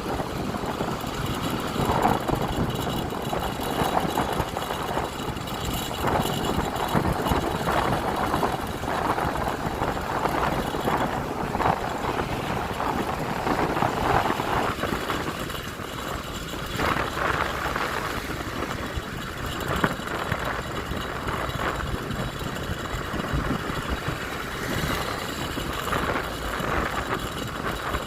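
Honda Click 125i scooter being ridden through city traffic: its engine running steadily, the sound swelling and easing every second or two.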